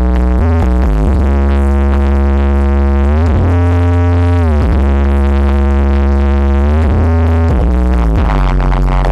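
Loud electronic dance music played through a large sound system, with heavy bass and long held synthesizer chords that slide down and back up in pitch several times.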